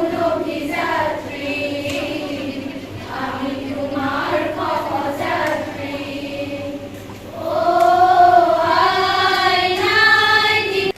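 A group of voices singing together in unison, in long held notes, getting louder about three-quarters of the way through and cutting off suddenly at the end.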